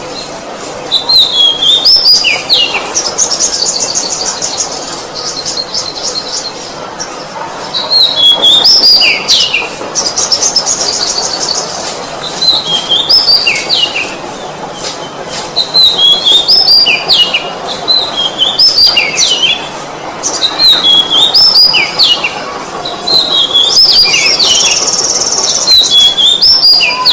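Oriental magpie-robin singing: bouts of loud whistled notes that sweep down in pitch, mixed with fast high trills, repeating every few seconds.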